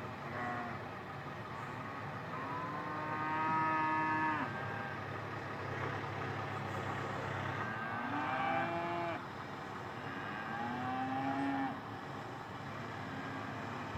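Cattle mooing, three or four drawn-out calls, the longest and loudest a few seconds in, over the steady running of a Kubota tractor's diesel engine.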